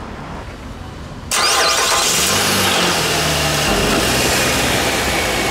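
A 2007 Renault Samsung SM7's 3.5-litre V6 starts up just after its muffler was replaced. It catches about a second in with a brief rise in revs, then settles to a steady idle.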